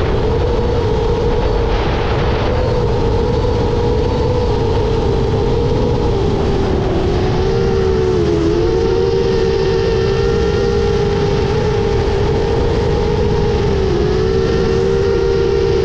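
Brushless motors and propellers of a 10-inch FPV quadcopter in flight, a loud, steady whine that dips briefly in pitch a few times as the throttle changes.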